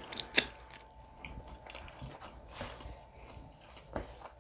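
Close-miked mouth sounds of chewing and swallowing the last bite, with one loud click about half a second in and scattered quieter clicks. A cloth towel rustles near the end.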